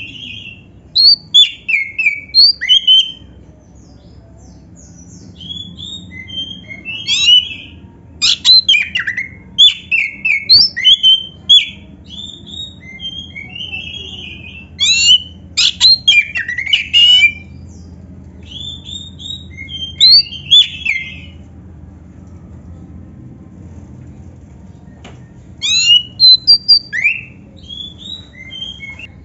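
Oriental magpie-robin (kacer) singing loud bursts of quick whistled and chattering phrases, some of them canary-like, with short pauses between bursts. A faint low hum sits underneath.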